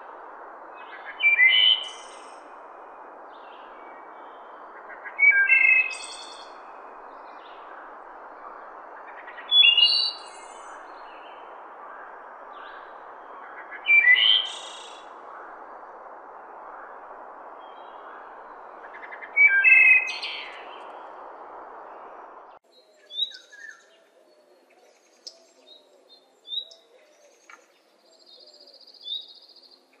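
Birds chirping: five loud calls about every four seconds over a steady hiss. The hiss stops suddenly about three-quarters of the way in, followed by softer, quicker chirps.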